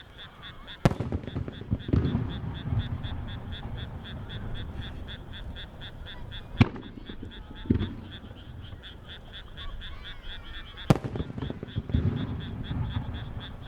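Three aerial firework shells bursting one at a time, each a sharp bang followed by a low, rolling rumble. A steady, rhythmic chirping of about four pulses a second runs underneath.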